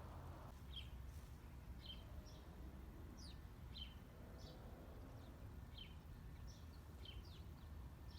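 Faint small-bird chirps, about a dozen short notes each dropping quickly in pitch, coming irregularly, over a steady low outdoor rumble.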